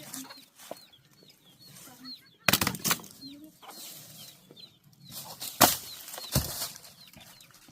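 Small birds chirping over and over with short, high calls, cut through by a few sharp knocks and clatters about two and a half, five and a half and six and a half seconds in.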